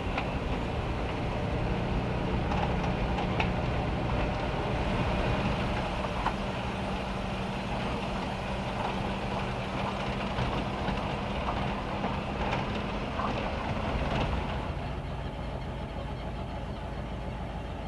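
A vehicle engine running with a steady low hum over the even hiss and scattered ticks of rain, the engine hum fading out about fourteen seconds in while the rain continues.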